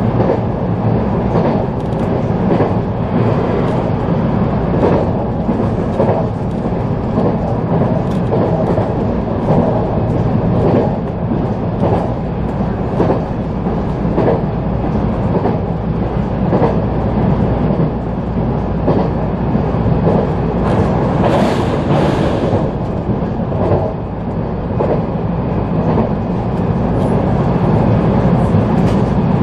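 Running noise heard from inside a JR San'in Main Line local electric train at speed: a steady rumble with the wheels clicking regularly over rail joints. A short hiss rises over it about two-thirds of the way through.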